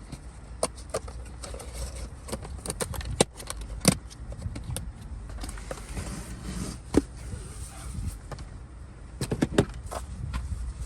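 Crinkling and irregular sharp clicks as a leather-cleaning wipe is pulled from its plastic pack and handled, over a low steady hum.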